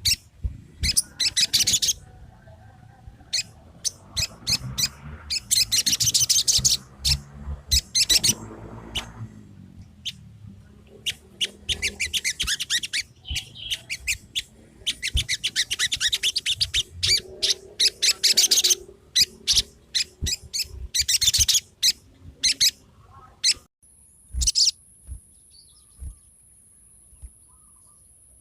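Crimson sunbird (sogon) calling in fast bursts of high, rapid chirping chatter, each burst lasting a second or two, played as a lure call to provoke a sogon that is reluctant to sing. The chattering stops about three-quarters of the way through, leaving a faint steady high tone and a few sharp clicks.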